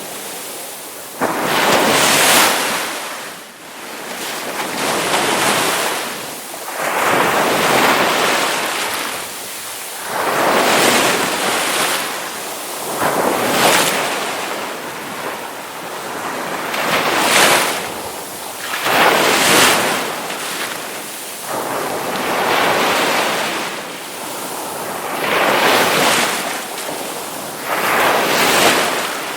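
Ocean waves breaking and washing in, surging and ebbing every two to four seconds.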